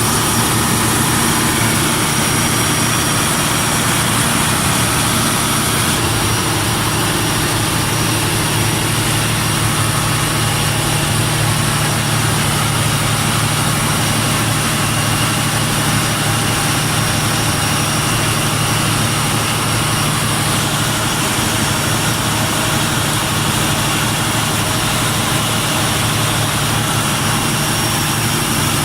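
Mitsubishi 600 kW diesel generator set running steadily at a constant speed.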